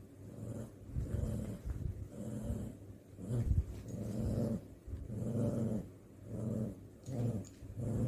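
Dog growling during play, a string of low growls about once a second that swell and fade.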